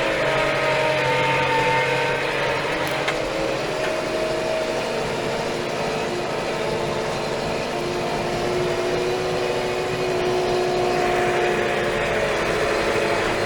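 Steyr 4075 Kompakt tractor's four-cylinder FPT diesel engine running steadily, with several whining tones that step up and down in pitch.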